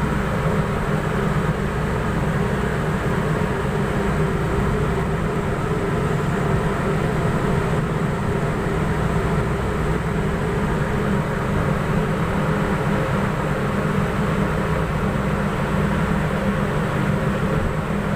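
A boat's engine running steadily: a constant low drone with an even rushing noise over it.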